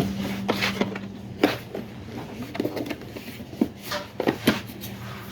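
Scattered light knocks and clicks of objects being handled, with a low steady hum that stops about one and a half seconds in.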